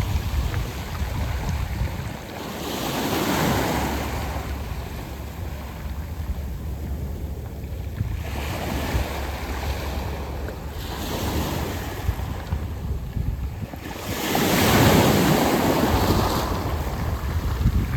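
Waves washing in and out on a beach of round pebbles, in rising and falling surges every few seconds, the largest near the end. A steady low rumble of wind on the microphone runs underneath.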